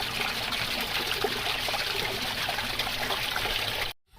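Running water trickling steadily, then cutting off suddenly near the end.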